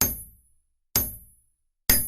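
Hammer striking an anvil three times in a steady beat, about one strike a second, each clang ringing high and dying away within half a second.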